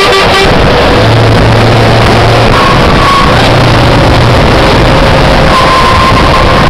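Scania T-cab truck's engine running loud through its side exhaust pipes, the recording overloaded. A short horn blast sounds right at the start.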